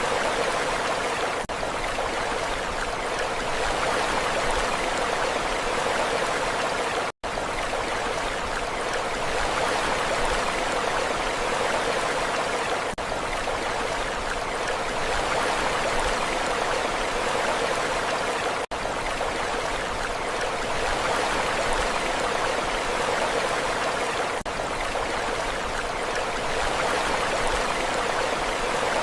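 Steady rushing water noise with no clear swells of waves, cutting out for an instant a few times, about 7, 19 and 24 seconds in.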